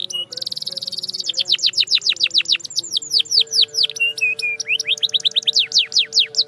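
Domestic canary singing: a fast run of repeated sweeping whistled notes, with a very rapid buzzy trill about half a second in and a few short held notes around four seconds in. The song breaks off abruptly at the end.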